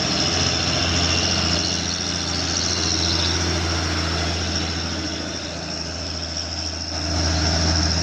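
Heavy truck engine running steadily with a low hum and a steady high-pitched whine above it. It dips slightly in the middle and picks up again about seven seconds in.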